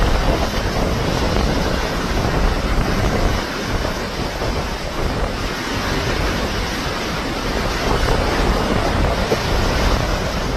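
Loud, steady rushing of wind and sea, with wind buffeting the microphone.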